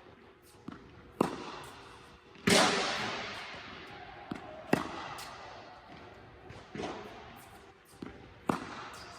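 Tennis practice off a ball machine: a string of sharp ball impacts, racquet strikes and bounces, every one to two seconds. The loudest is about two and a half seconds in and rings on for about a second.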